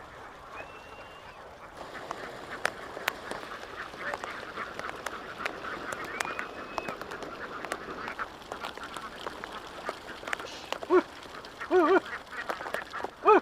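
A large flock of domestic ducks chattering and quacking continuously, with a few loud quacks near the end.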